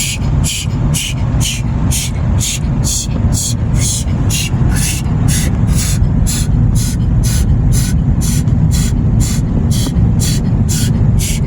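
Automatic car wash machinery running around the car, heard from inside the cabin: a steady low rumble with a rhythmic hiss pulsing about three times a second.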